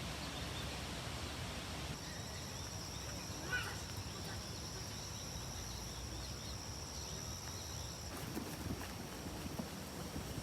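Outdoor woodland ambience: a steady low rumble, with a steady high-pitched whine lasting several seconds in the middle and a brief chirp about three and a half seconds in. A few light ticks come near the end.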